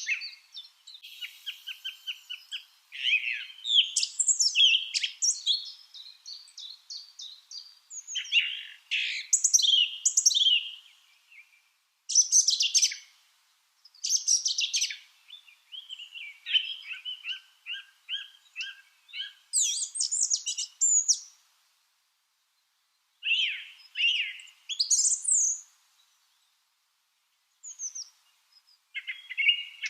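Lovebirds chirping and chattering in quick runs of short, sharp notes mixed with higher squeaky calls, coming in bursts with two brief lulls in the second half.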